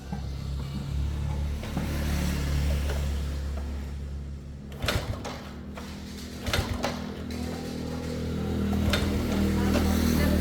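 2004 SYM motorcycle engine running steadily and picking up near the end, with a few sharp metallic knocks about halfway through.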